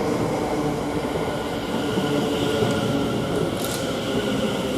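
Greater Anglia Class 720 Aventra electric multiple unit running into the platform, a steady electric whine over rail and wheel noise. A short high-pitched squeak comes about three and a half seconds in.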